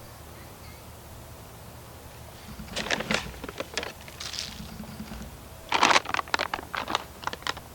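Crinkling and rustling of a bag of bone meal being handled and poured, in two spells of quick crackles, the second starting about six seconds in and louder.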